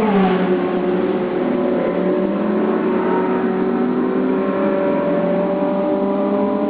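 Historic sports racing cars at speed. One car's engine note drops sharply in pitch as it passes at the very start, then several engines run on under power with steady overlapping notes.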